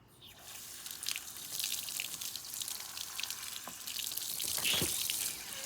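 Tap water turned on and running into a sink, splashing over a vacuum cleaner filter being rinsed, with a louder gush near the end.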